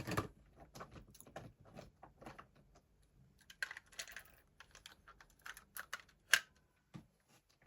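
Light, irregular clicks and taps of a small plastic toy engine being handled, with one sharper click a little over six seconds in.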